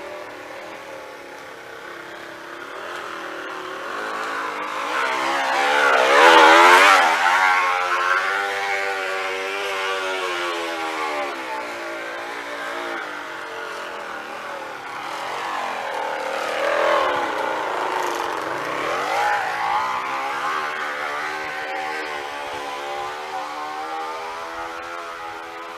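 Empty, uncapped plastic water bottle wedged against a mountain bike's front tyre, its plastic flicked by the knobby tread into a loud, buzzing, engine-like drone like a dirt bike. The pitch rises and falls with riding speed: highest and loudest about six to seven seconds in, sinking low around eighteen seconds, then climbing again.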